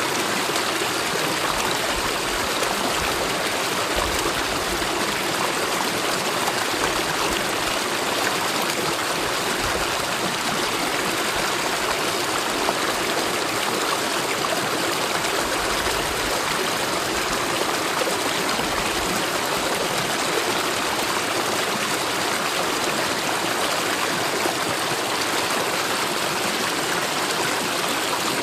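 A mountain valley stream running: a steady, even rush of water.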